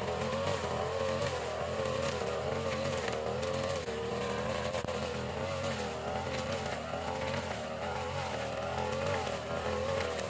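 Small petrol engine of a grass-cutting machine running at high speed, its note wavering slightly up and down as the load on the cutter changes.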